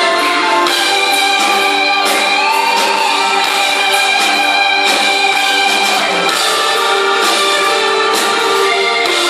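Live rock band playing an instrumental passage without vocals: held keyboard and guitar chords over steady drum and cymbal hits.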